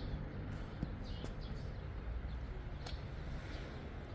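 Outdoor background noise: a steady low rumble with a few faint sharp knocks.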